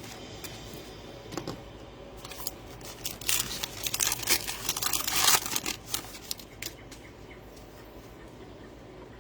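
A trading card pack's plastic wrapper being torn open and crinkled, a few light clicks and then a few seconds of dense crackling near the middle.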